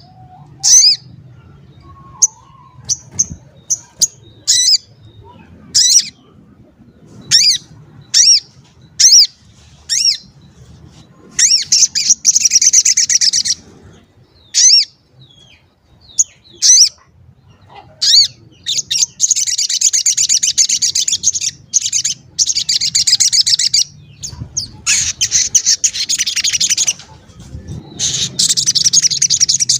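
A sogon songbird singing "cuit cuit": sharp, high chirps about once a second, broken by several long, fast, chattering trills of one to three seconds each.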